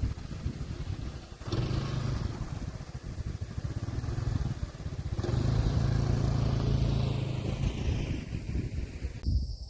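A motor vehicle engine running, growing louder about one and a half seconds in and again about five seconds in. The sound changes abruptly near the end.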